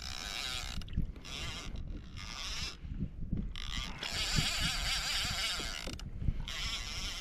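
Fishing reel working in repeated bursts, each lasting half a second to two seconds with short pauses between, the longest running from about four to six seconds in, over low bumps against the kayak.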